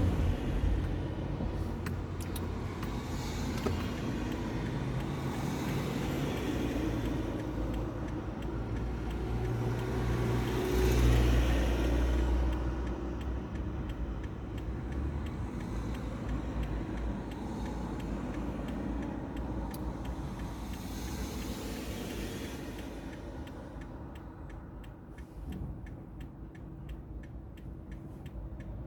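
Steady engine and road rumble of a vehicle in town traffic, heard from inside, swelling about ten seconds in and easing off later. Near the end a regular ticking comes in, like a turn indicator.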